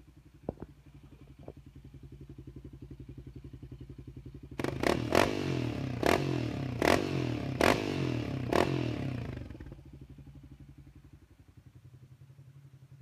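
Yamaha Raptor 700 ATV's single-cylinder engine, fitted with a Hindle aftermarket exhaust, idling. From about a third of the way in it is blipped harder for about five seconds, with a sharp crack from the exhaust roughly once a second, then it drops back to idle.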